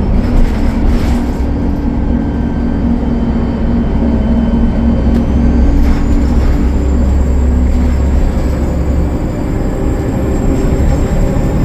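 Diesel bus engine, a Cummins ISL9, running steadily as the bus drives, with a deep drone. A thin high whistle joins about halfway through.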